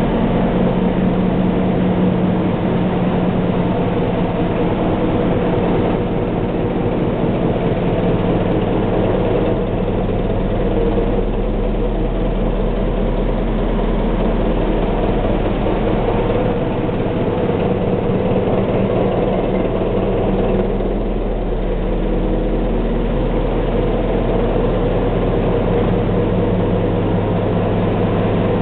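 Renault stationary diesel engine, unit No. 4 of a Maginot Line fort's generating plant, running steadily at constant speed with a deep even hum.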